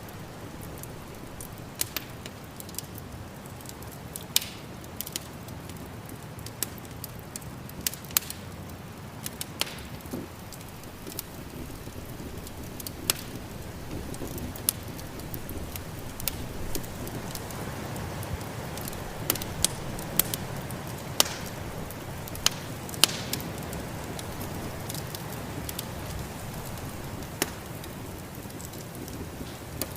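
Wood fire crackling, with irregular sharp pops and snaps over a steady low rush of snowstorm wind that swells a little past the middle.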